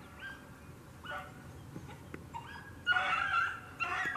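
Rabbit-hunting dogs baying on a hot rabbit trail: a string of short, drawn-out bays that grow louder in the last second or so.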